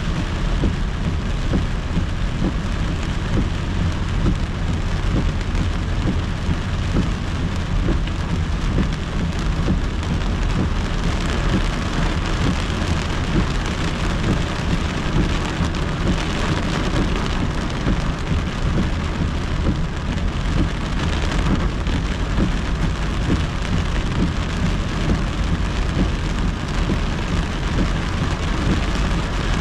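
Heavy rain pelting a moving car's windshield and roof as a dense, steady hiss, over a constant low rumble of tyres on the wet road, heard from inside the car.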